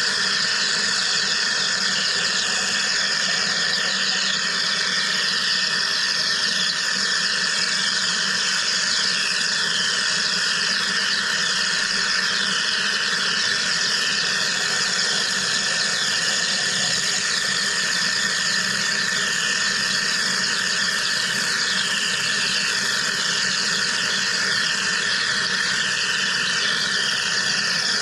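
Wire EDM machine running a cut: a steady hissing, whining noise crossed by a constant stream of short, falling squeaky chirps.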